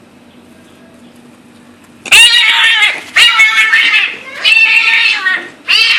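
A domestic cat meowing loudly in long, drawn-out calls. Three come one after another starting about two seconds in, and a fourth begins near the end.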